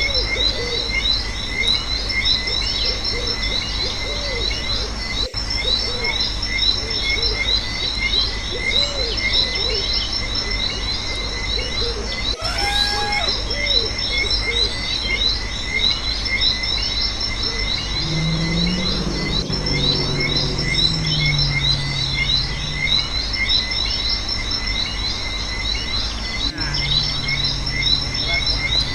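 Night chorus of frogs and chirping insects, steady throughout, with repeated short frog calls under continuous high insect trills. A few lower drawn-out calls come in past the middle.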